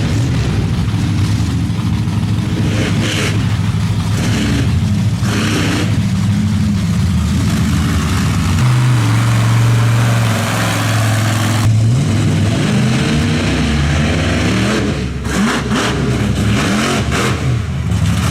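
Monster truck engine running and revving. It holds one steady high rev for about three seconds near the middle, then its pitch rises and falls with the throttle.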